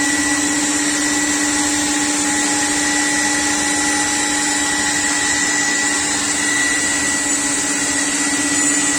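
CNC panel-cutting machine running: a steady whine over a constant rushing hiss, with no change in pitch or level.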